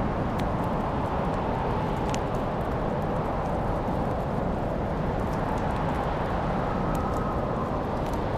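Fireplace fire crackling: scattered sharp pops and snaps over a steady low rumble of burning.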